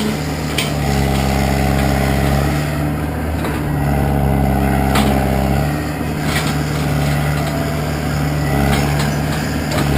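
Engine of heavy earth-moving equipment running steadily close by. Its note swells and eases a few times as the load changes.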